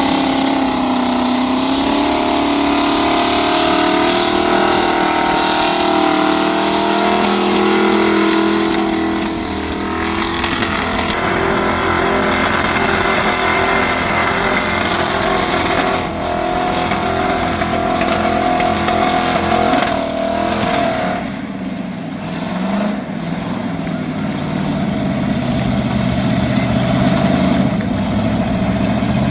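A burnout car's engine revving hard and held at high revs, its pitch wavering up and down, with abrupt changes in the sound several times.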